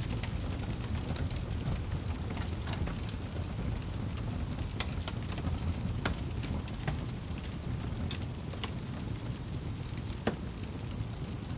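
Wood fire burning in a fireplace: a steady low rumble of flames with irregular sharp crackles and pops from the firewood.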